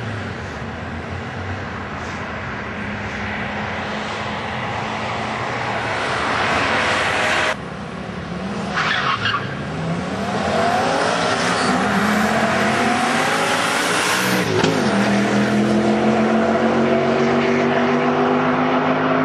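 Audi S2 and Audi RS2, turbocharged five-cylinder cars, accelerating flat out side by side as they race past. The engine pitch climbs for several seconds, dips sharply at a gear change, then holds high and steady.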